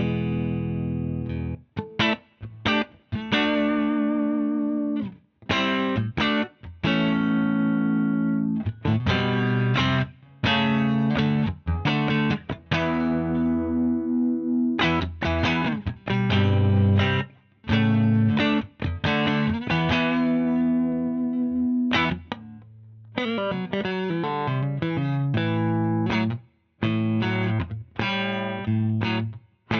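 Electric guitar played through a Wampler Ego 76 mini compressor pedal: chords and short phrases, some held and ringing, others cut off sharply.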